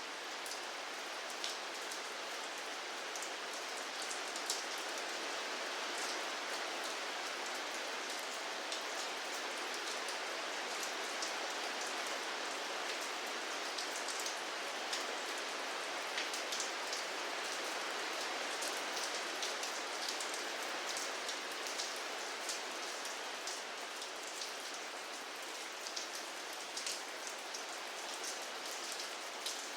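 Steady rain falling, an even hiss with many small drops ticking on a hard surface.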